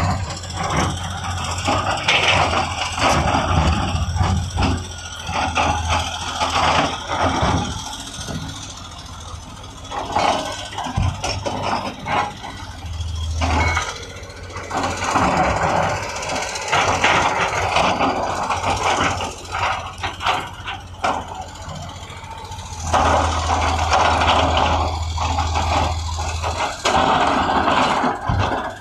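Heavy earthmoving machinery working: a diesel engine running, its deep note swelling and easing in stretches under load, with frequent clanks and rattles of metal.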